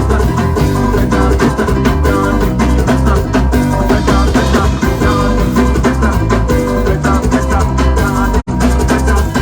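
Live band playing an instrumental stretch of a song with drums, bass and guitar, loud and steady on the beat. The sound drops out for an instant near the end.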